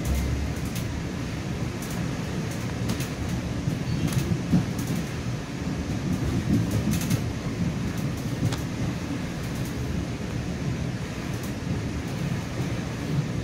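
Steady low rumble of a commuter train running, heard from inside a passenger coach, with scattered light clicks and rattles.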